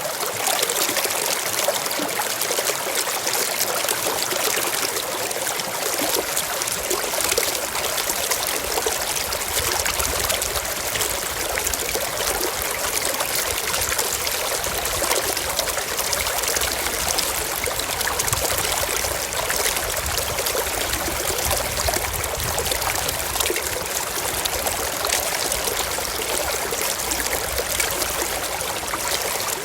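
Mountain stream flowing over rocks: a steady, unbroken rush and trickle of water, with a low rumble coming in about nine seconds in.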